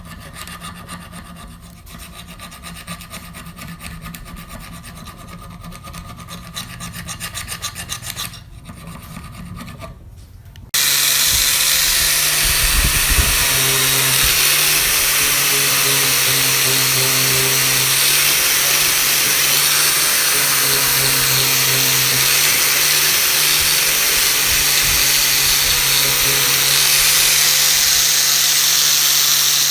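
Rhythmic hand rasping or filing, scraping strokes in quick succession. About 11 s in it cuts abruptly to a loud electric power tool running steadily, a hiss of grinding or sanding over a low motor hum.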